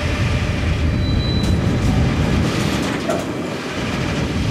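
A train passing close by: steady rolling noise of wheels on rails, with sharp clicks from about one and a half seconds in.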